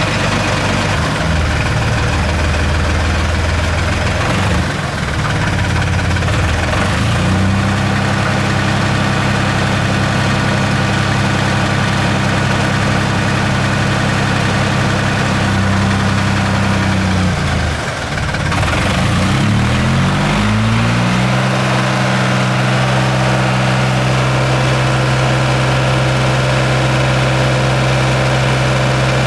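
An engine running steadily. Its speed steps up about seven seconds in, dips around eighteen seconds, and settles at a new steady speed a few seconds later.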